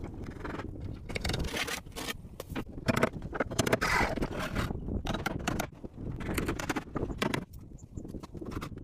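Irregular scraping and scratching in uneven strokes, with no steady tone.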